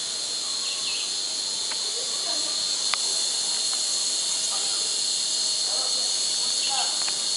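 Steady, high-pitched insect chorus: a continuous, even shrill hiss with no breaks.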